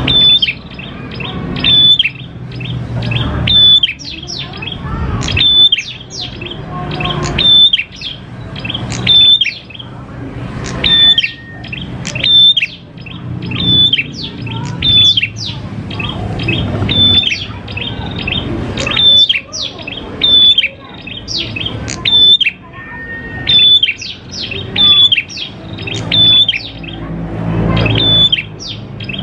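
Prenjak klawu (grey prinia-type songbird) singing its fast, ringing song: sharp high chirping phrases repeated about every second and a half. A low rumble swells in the background between phrases.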